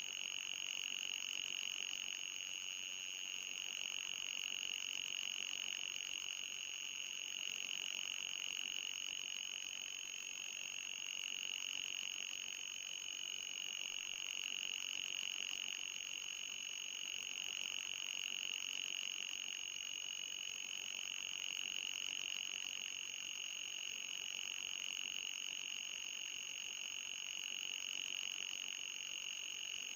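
Electronic anti-mosquito repellent tone: a steady high-pitched whine that wavers slowly in pitch, with a thinner, higher tone above it.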